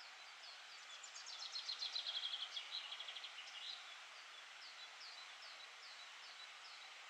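A small songbird singing: a fast run of high chirping notes lasting about two and a half seconds, starting about a second in, then a few separate notes, over a steady hiss.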